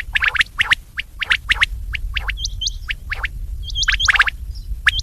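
Quail calling over and over: quick sharp notes in twos and threes, mixed with higher, hooked whistled notes also in twos and threes.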